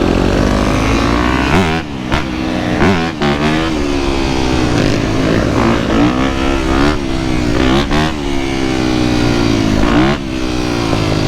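Dirt bike engines running hard on a ride. The revs climb and drop sharply several times, as the bikes accelerate and shift through the gears.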